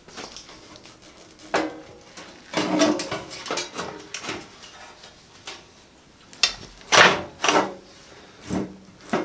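Metal exhaust pipe and muffler pieces knocking and scraping against the mower's sheet-metal body while being fitted in place: about eight irregular clanks with short ringing, the loudest near the end.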